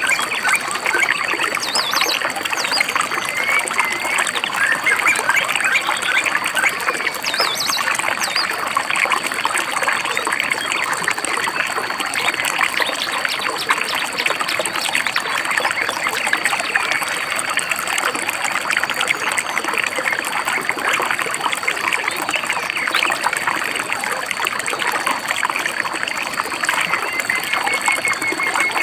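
A small stream babbling and trickling steadily, with a few brief bird chirps and a steady thin high tone above it.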